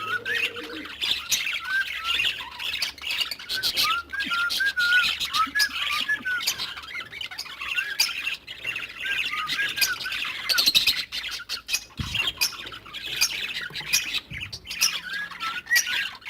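A flock of cage birds squawking and chirping over one another. Short arched chirps repeat many times throughout, over a dense high twittering chatter.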